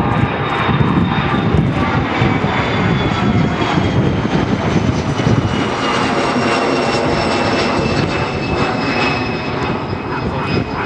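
Airliner engines running loud as an aircraft passes the runway, a heavy rumble with a high whine that slowly falls in pitch.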